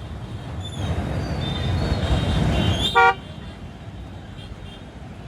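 Road traffic noise swells over a couple of seconds, then a vehicle horn gives one short, loud toot about three seconds in, before steady traffic noise resumes.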